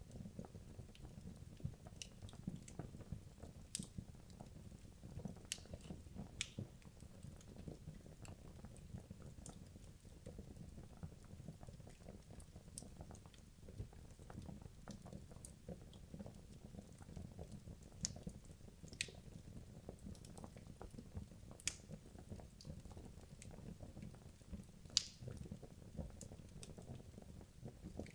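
Wood logs burning in a fireplace: a low steady rumble of the fire with irregular crackles and sharp pops from the burning wood, a few louder snaps now and then.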